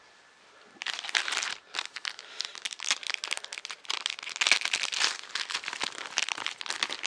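Packaging being torn open and crinkled by hand as a magazine issue is unwrapped, a dense irregular crackle starting about a second in and going on to the end.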